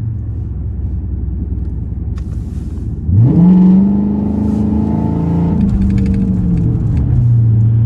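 Straight-piped 5.7-litre HEMI V8 of a 2012 Dodge Charger R/T running at low revs, then about three seconds in, revving up sharply under throttle and holding. The revs drop back near the end and settle into a steady drone.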